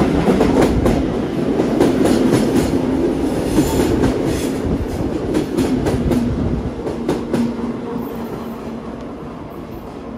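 Vintage Tait electric suburban train running past along a station platform: a steady hum and rumble, with the wheels clicking over the track. It grows quieter over the last few seconds.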